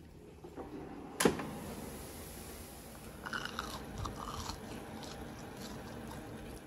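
A sharp knock about a second in, then crisp crunching of crumb-coated air-fried chicken nuggets being bitten and chewed, in a few short crackling spells.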